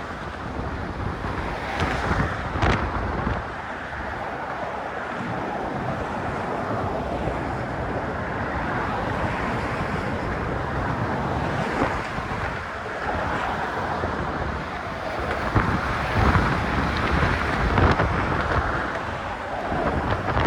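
Strong wind buffeting a phone's microphone that is half-covered by a sock, a rough rushing noise with heavy low gusts that rise and fall, and a few short knocks.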